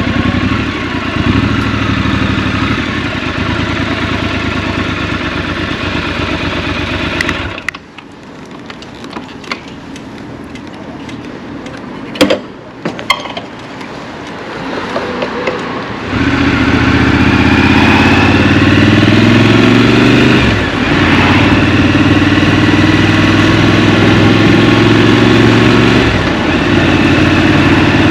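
Scrambler motorcycle engine running, then dropping away sharply about seven seconds in to a quieter stretch with a few clicks. About sixteen seconds in it comes back loud and pulls away, the pitch rising through the gears with short dips at the gear changes.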